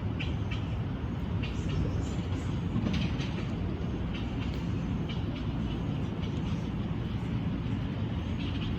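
Small birds chirping in short, scattered calls over a steady low rumble, like passing traffic or a train.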